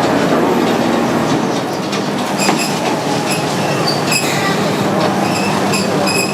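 The Botchan tourist train running on tram track: a steady rumble of wheels and running gear. Short high-pitched wheel squeals recur from about two seconds in.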